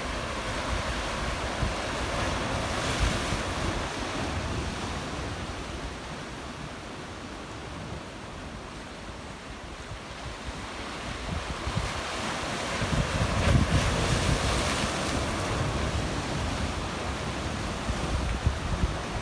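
Black Sea waves washing onto a rocky shore, swelling twice and easing in between, with wind buffeting the microphone.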